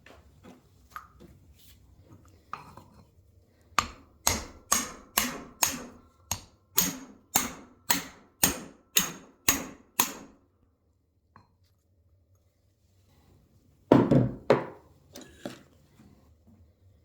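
Metal hammering: about thirteen sharp, ringing blows at roughly two a second, then a short loud cluster of knocks near the end, as in driving new guide bushings into a motorcycle fork.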